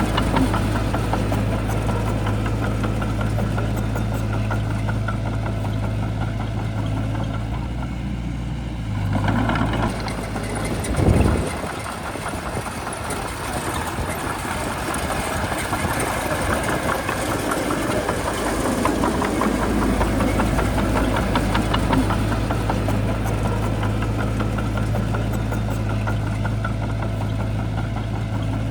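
Heavy diesel engine of a Shantui bulldozer running steadily with a low drone. About eleven seconds in there is a brief louder surge, then the deepest part of the drone drops away for several seconds before it returns.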